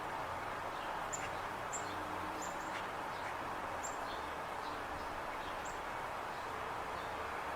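Outdoor ambience: a steady background hiss with small birds chirping, short high chirps every second or so.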